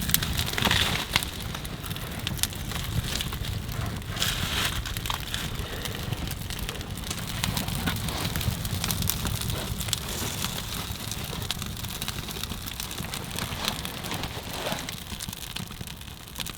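Small birch-bark fire crackling with fine irregular snaps, just after being lit, with a couple of louder handling rustles about a second in and around four seconds.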